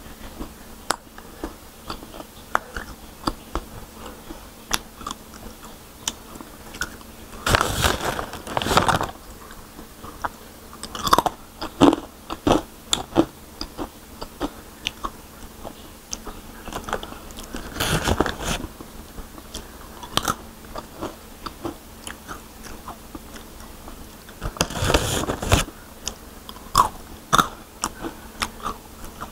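Close-miked crunching and chewing of crispy fried fruit and vegetable chips: many small crisp crunches, with a few louder moments of about a second each.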